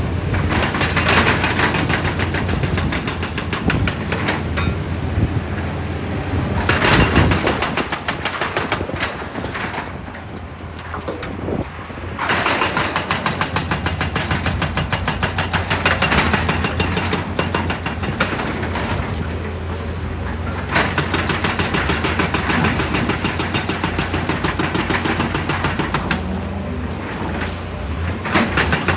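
Excavator-mounted hydraulic rock breaker hammering rock in rapid, even blows over a heavy diesel engine. The hammering eases off for a few seconds about a third of the way in, then resumes.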